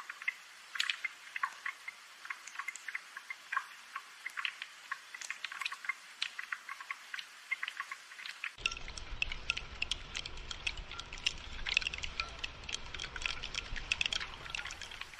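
Gentle rainfall heard as a steady patter of separate drops and drips. A little over halfway through, a low rumble comes in underneath.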